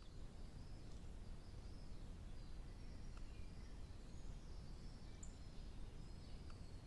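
Faint wild birdsong and calls over a steady low background hiss in a woodland, with a couple of faint ticks.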